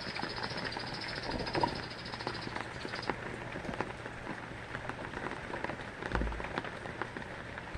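Rain falling, with drops pattering irregularly on a surface. A steady high-pitched trill runs through the first three seconds and stops abruptly.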